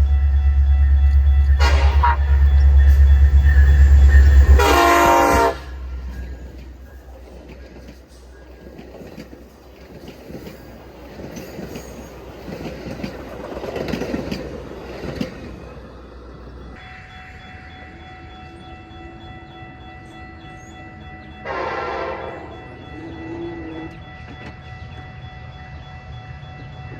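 Metra commuter train passing close by. The diesel locomotive rumbles loudly and sounds its horn, a short blast about two seconds in and a longer one near five seconds. The engine noise then drops away to the rolling clatter of the cars, with another brief horn-like blast near the end.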